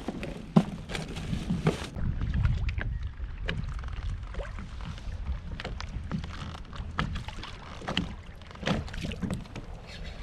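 Scattered knocks and small clatters of gear and catch being handled on a kayak, with one sharp knock about half a second in, over a steady low rumble.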